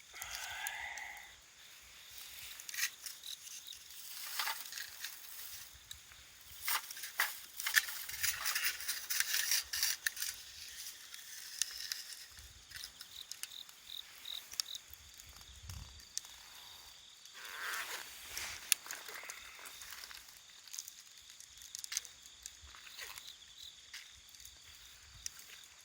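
Wood fire of thick logs burning in a compact camping fire stand, crackling with irregular sharp pops and snaps over a soft hiss.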